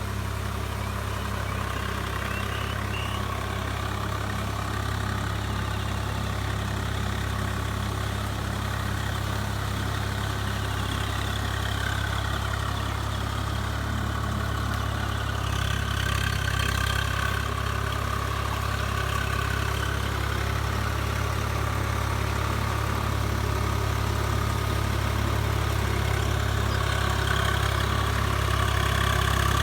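Swaraj 744 FE tractor's diesel engine running steadily with a low, even drone, growing slightly louder near the end.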